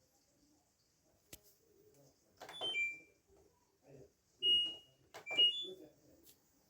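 LG F12A8ND washing machine's control panel beeping as its buttons are pressed: a click, then a falling three-note beep, a single beep, and a rising three-note beep.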